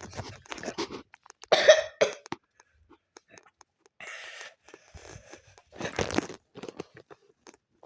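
A person coughing several times in short separate bursts; the loudest, voiced cough comes about one and a half seconds in.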